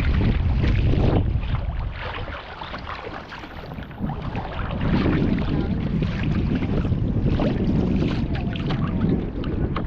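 Water splashing and lapping against a kayak as it is paddled, with wind rumbling on the microphone, strongest in the first two seconds.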